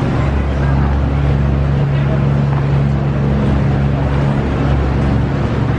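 River tour boat's motor running steadily underway, a constant low hum.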